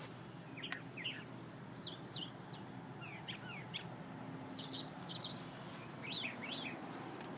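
Songbirds chirping: many short, quick chirps, several of them sliding down in pitch, scattered over a faint steady background hiss.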